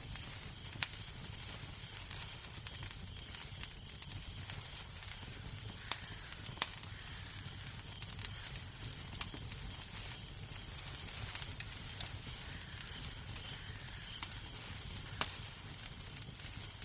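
Wood fire crackling in a fireplace: a steady hiss over a low rumble, with sharp pops scattered irregularly.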